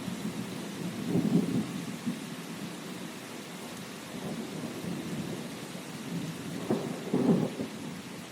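Steady rain with thunder rumbling low underneath, swelling about a second in and again near the end.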